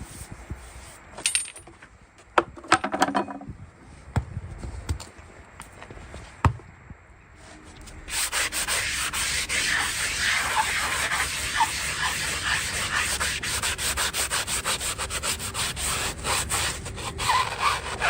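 Farrier's rasp filing a horse's hoof in quick, steady back-and-forth strokes, starting about eight seconds in after a few scattered knocks and scrapes.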